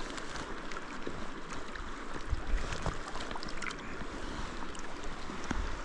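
Steady rush of river water, with a few faint ticks.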